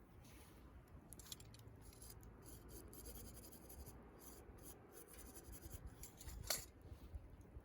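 Campfire of burning wood crackling faintly, with scattered small ticks and one sharper pop about six and a half seconds in.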